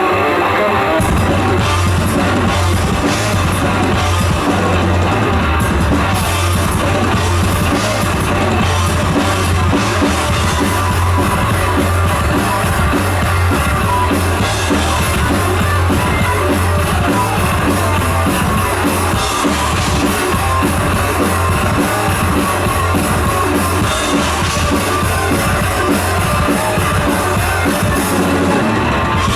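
Thrash metal band playing live and loud: a lone distorted electric guitar, then about a second in the bass and drum kit come in for a fast, driving full-band passage.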